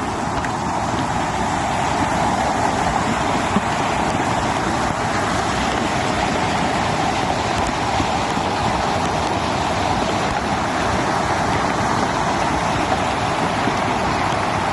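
Steady rush of a river's current, running high after rain.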